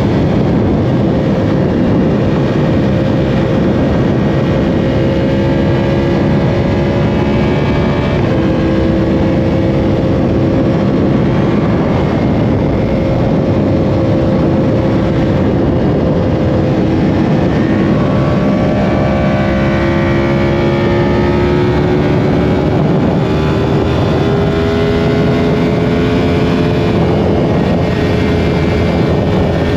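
Yamaha R1's inline-four engine running at highway speed under a constant rush of wind and road noise. The engine note holds steady, shifts pitch about eight seconds in, then climbs slowly through the second half as the bike gathers speed.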